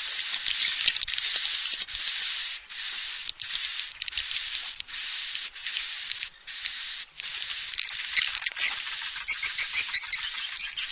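Recorded swiftlet calls played as a lure sound for swiftlet nesting houses: a continuous, high-pitched buzzy twittering broken by brief gaps about every 0.7 seconds, with a burst of rapid sharp chirps about nine seconds in.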